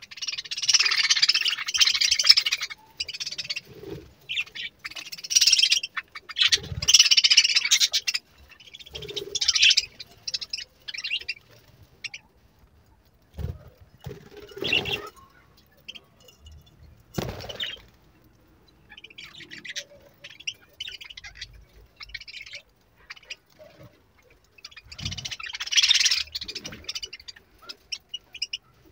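Budgerigars chattering and warbling in bursts, busiest in the first ten seconds and again near the end, with a few short knocks in between.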